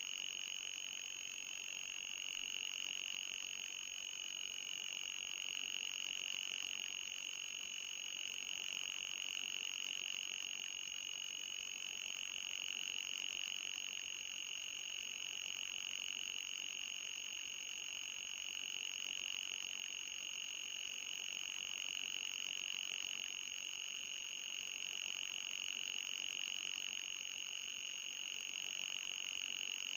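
Electronically generated anti-mosquito repellent tone: a steady, high-pitched whine that wavers slightly in pitch, with a fainter, higher second tone above it and a light hiss beneath.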